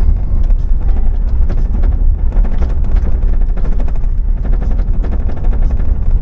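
A car driving, with a heavy steady low rumble and many short knocks throughout.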